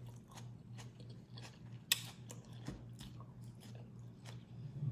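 A person chewing and biting food close to the microphone, with many small crunching, wet clicks. One sharper click comes about two seconds in.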